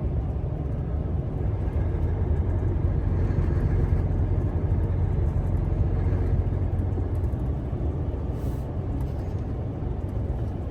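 Semi-truck tractor's engine and road noise heard from inside the cab while driving: a steady low drone.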